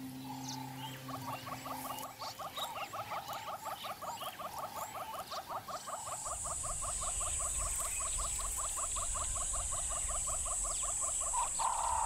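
Evening bush ambience: an animal's rapid, even pulsing call repeating about eight times a second, with scattered short high chirps. About halfway through, a steady high hiss and a low rumble join in.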